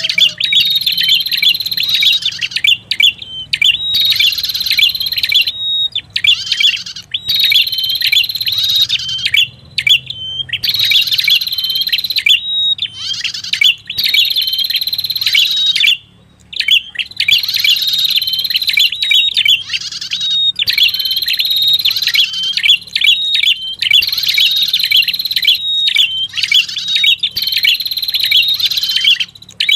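Prenjak kepala merah, a small prinia-type songbird, calling in a lure recording. Fast, high chirping phrases repeat one after another with brief pauses between them.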